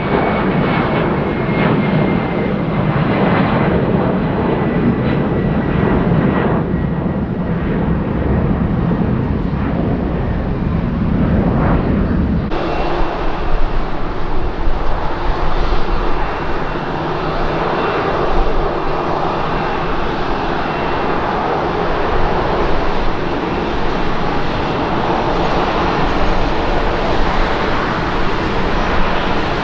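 Jet airliner engines running loud and close, with a thin high engine whine that falls slowly in pitch over the first few seconds. The sound changes abruptly about twelve seconds in. From there a steadier jet roar goes on, with a faint high whine above it.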